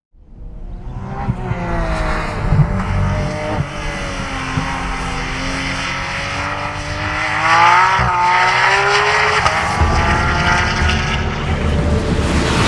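Porsche 911 GT3 RS's 4.0-litre flat-six running hard on track, fading in over the first second. Its pitch sags and climbs as the revs change, with a sharp break about eight seconds in and another climb after.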